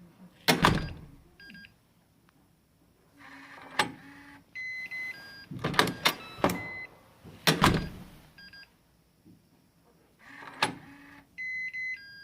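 Gateman R110-F digital door lock working as the door is shut: several sharp clunks from the door and latch, the lock's motor whirring for about a second twice as it drives the bolt, and short electronic beep tones. This is the strange noise on closing that the owner is complaining about.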